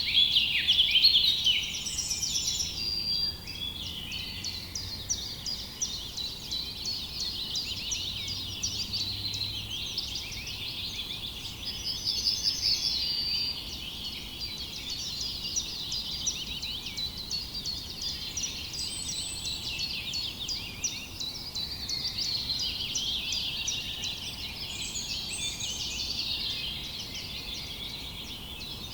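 A dense chorus of many small birds chirping and twittering together, with a louder trilled phrase standing out every so often.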